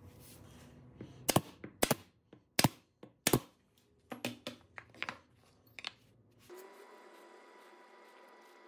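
Wooden parts being handled on a workbench, knocking and clacking: four sharp knocks in the first few seconds, then lighter taps, then a faint steady hum for the last couple of seconds.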